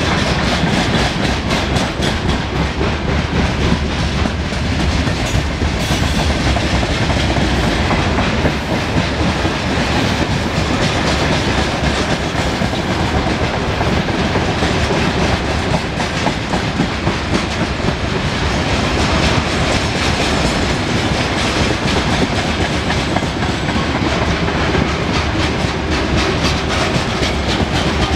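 Freight train of covered hopper and open wagons rolling past close by, a steady loud rumble with the steel wheels clacking over the rail joints.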